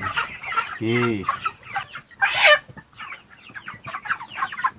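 A flock of five-week-old broiler chickens clucking and cheeping continuously, with a loud, sharp noise a little over two seconds in.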